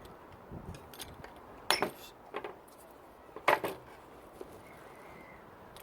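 Frame-making tools and wooden frame parts handled on a work surface: a few sharp clinks and knocks, the loudest about two and three and a half seconds in.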